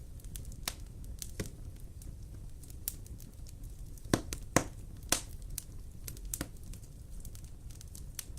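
Wood fire in a fireplace crackling: scattered sharp pops over a steady low rumble of the flames, with three louder pops close together about four to five seconds in.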